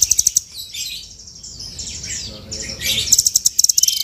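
Velvet-fronted nuthatch (rambatan) singing: a brief rapid high trill at the start, scattered sharp chirps, then another fast, evenly pulsed trill from about three seconds in.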